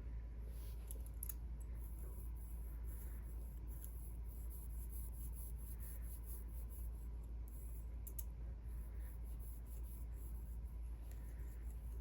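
Hands rubbing and massaging bare feet: soft skin-on-skin friction with scattered faint scratchy clicks, over a steady low hum.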